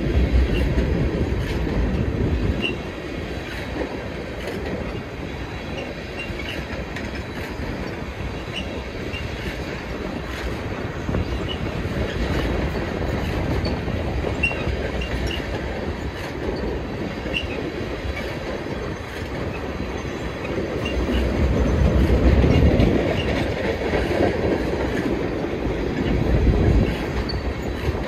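Freight train of flatcars loaded with wind turbine blades rolling past: a steady rumble of wheels on rail, with short high wheel squeaks scattered throughout. The rumble grows louder about three-quarters of the way through and again briefly near the end.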